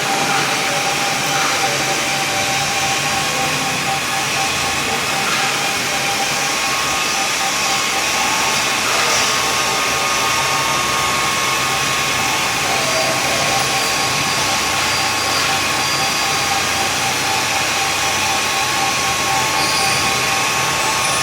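BFW HF 3.5 milling machine running steadily, its motor and drive giving a constant whine over a loud mechanical rush.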